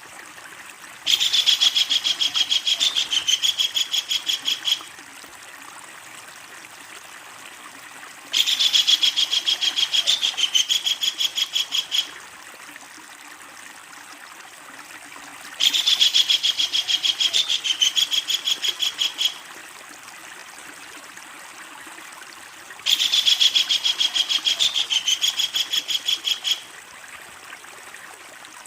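Kingfisher giving its loud, long rattling call, a fast run of sharp notes. Four bouts of about four seconds each come at even intervals about seven seconds apart.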